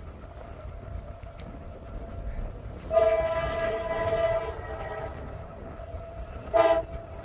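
Approaching freight locomotive's air horn: one long blast of about a second and a half, then a short blast about two seconds later, over a low wind rumble.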